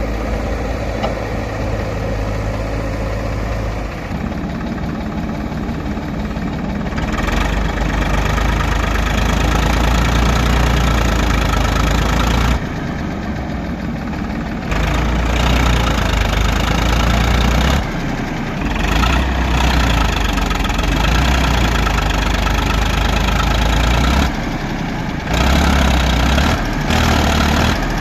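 Diesel engine of a JCB 3DX Super backhoe loader running steadily, its level rising and falling back several times as it works.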